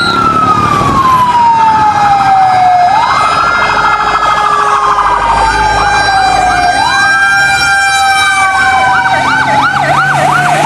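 Electronic fire-engine siren from a toy fire truck, wailing in a slow rise and fall that repeats about every four seconds. Near the end a faster yelping sweep joins in.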